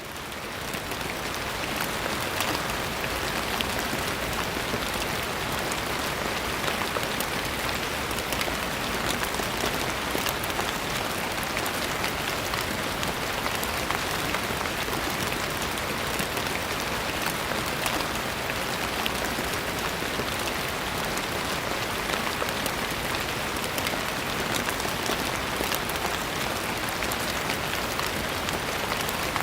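Steady rain falling on a surface, a dense even hiss with many fine drop patters, fading in over the first second.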